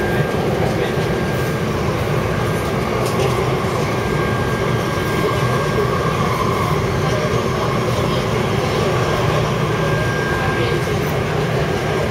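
Taipei Metro C371 train running, a steady rumble of wheels and running gear with no stops or pauses. A thin high whine comes and goes over it.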